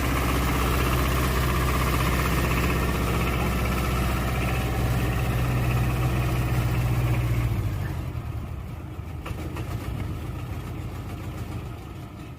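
An engine running steadily. Its hum drops away about seven and a half seconds in, leaving a fainter hiss with a few clicks.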